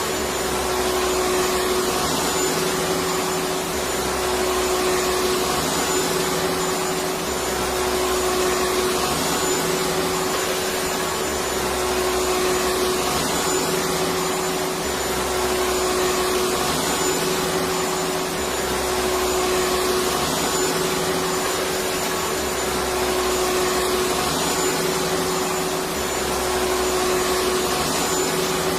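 Electric vacuum cleaner running steadily: a constant rush of air with a steady hum, swelling slightly in loudness every few seconds.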